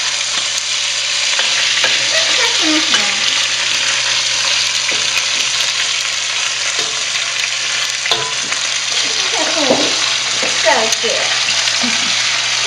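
Chicken pieces sizzling in hot oil in a wok, stirred with a long metal spatula, with a few knocks and scrapes of the metal against the wok.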